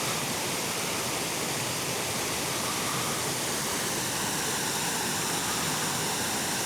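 Small creek waterfall with water pouring over it: a steady, even rush.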